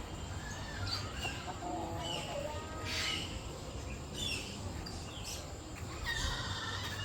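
Several birds calling, with short rising chirps about once a second and some lower, clucking calls in the first half.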